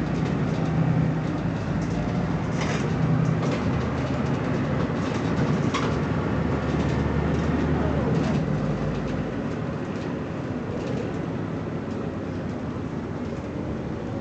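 BMC Belde 220-SLF city bus's diesel engine running under way, with a few sharp clicks and rattles. The engine note is steady at first and lower from about halfway.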